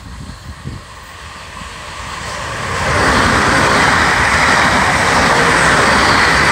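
Siemens Desiro electric multiple unit passing close by at speed. The noise of wheels on rail builds over the first three seconds, then holds loud and steady as the carriages go past.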